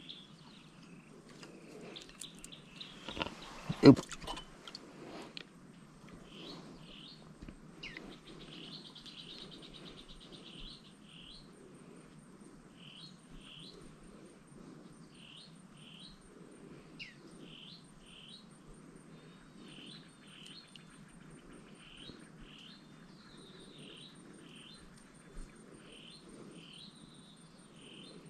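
Small birds chirping, short high calls repeated about once a second, over a low steady background hum. One loud sharp knock about four seconds in.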